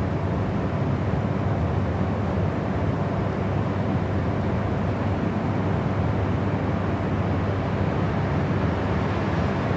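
Steady white-noise sleep sound: an unbroken, even hiss weighted toward the low end, deep and soft rather than bright.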